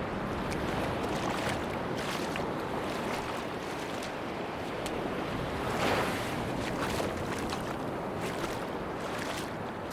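Sea waves washing onto a beach: a steady rush of surf with light crackling, and a louder wave breaking about six seconds in.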